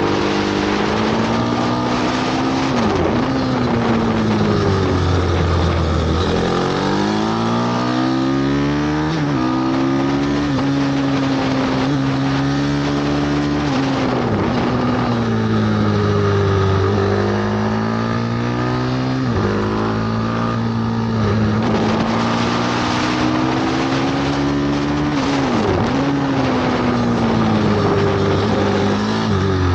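Bucci F6 pit bike's single-cylinder four-stroke engine ridden hard round a short circuit, its revs climbing and falling again and again, with sudden drops as the throttle shuts or it shifts gear.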